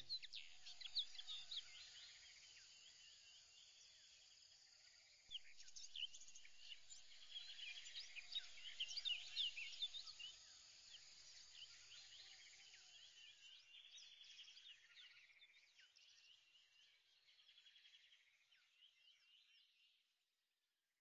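Faint birdsong: many small birds chirping over one another, busiest midway and fading out near the end.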